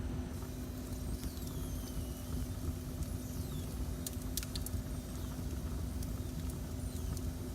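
Wood fire in a fireplace burning with a steady low rumble and a steady hum underneath. A few sharp crackles come about four seconds in, and faint high whistling glides sound a second or two in.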